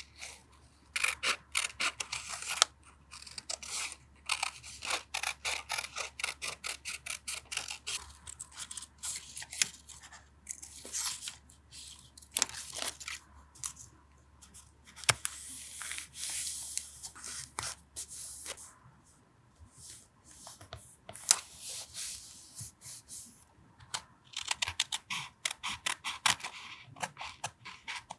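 Paper being handled for a journal collage: rapid tearing, rustling and crinkling in clusters with short pauses between them. A low refrigerator hum underneath stops about two-thirds of the way through.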